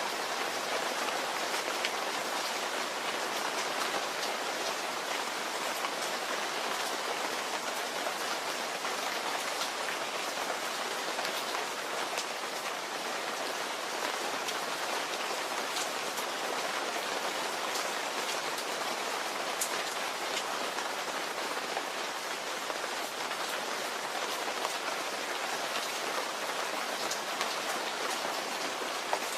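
Steady rain falling: an even hiss with scattered individual drops ticking on a surface.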